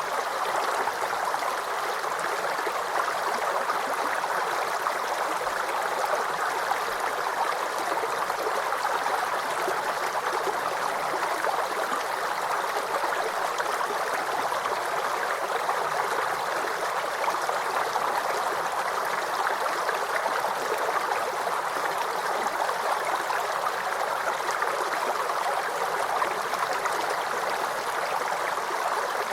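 Small forest creek babbling and gurgling steadily over stones.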